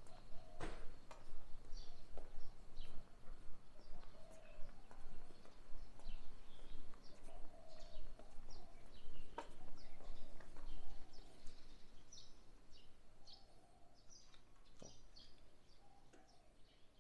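Birds chirping: many short, high calls, overlapping throughout, with a few sharp taps now and then. The sound grows quieter over the last few seconds.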